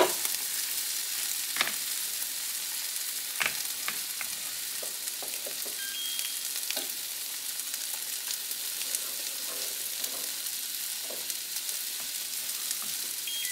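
Omelette and hash browns frying on a Blackstone E-Series electric indoor griddle: a steady sizzle with scattered pops and crackles of the fat. Two short beeps from the griddle's control dial, one about halfway through and one near the end as the griddle is switched off.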